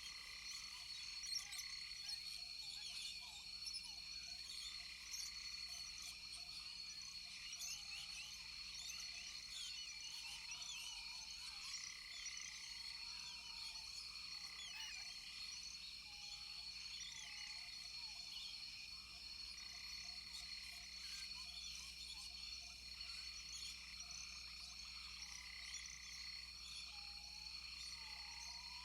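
Rainforest frog chorus: many frogs calling at once in dense, overlapping short chirps, over a steady high-pitched drone.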